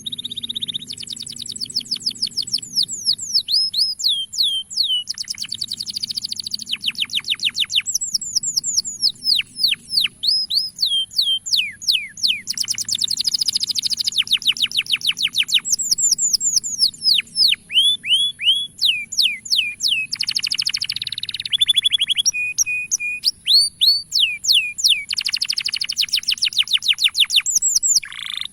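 Male canary singing a long, continuous song of fast trills, each phrase a rapid run of repeated falling whistles that switches to a new phrase every second or two. A steady high hiss runs under it.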